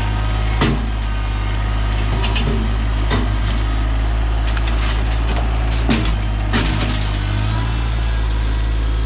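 Rural King RK24 compact tractor's diesel engine running steadily, with about five sharp knocks and clanks.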